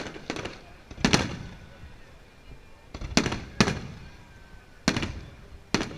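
Aerial fireworks bursting in a string of sharp, irregular bangs, about eight in six seconds, some in quick pairs, each with a short echoing tail.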